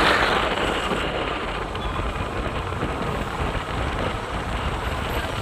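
Steady road noise from a scooter on the move: wind rushing over the microphone along with the engine and tyres, without any clear engine note.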